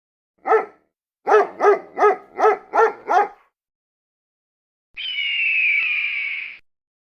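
Dog barking: a single bark, then a quick run of six barks. About five seconds in, a different animal call follows, held for about a second and a half with a slightly falling pitch.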